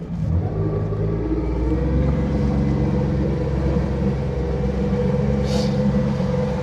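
Small fishing boat's engine running steadily, its revs rising about a second and a half in.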